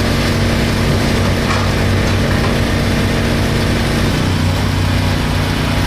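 An engine running steadily, its note changing about four seconds in.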